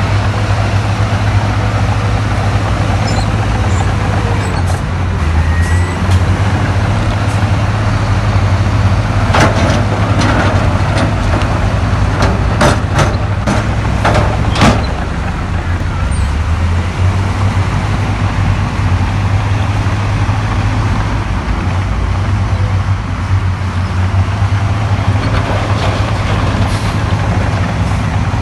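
Heavy earthmoving machine's diesel engine running steadily with a strong low drone, with a run of sharp knocks and clanks between about 9 and 15 seconds in.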